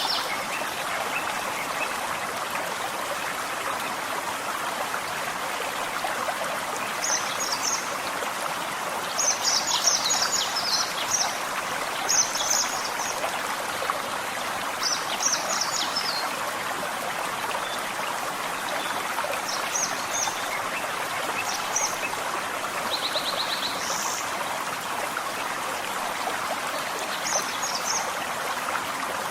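A gentle forest stream flowing steadily, with songbirds giving short high chirping phrases every few seconds and one quick trill late on.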